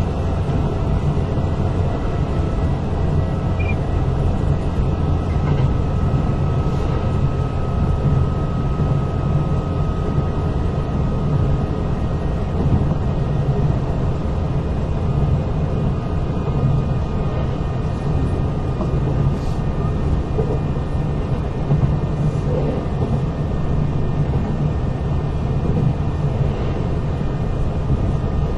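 Interior running sound of a Kintetsu 8000-series electric train, car 8079: a steady rumble of wheels on rail and running gear, with a faint high whine over it.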